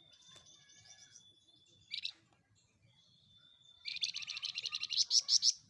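A flamboyan songbird singing. It gives a long, thin, high whistle, a short burst about two seconds in, and a second held whistle, then breaks into a rapid, loud trill of about ten notes a second that grows louder near the end.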